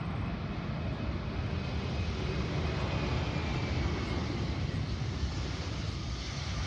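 An airplane's engines rumbling steadily, with a faint high whine that slowly falls in pitch.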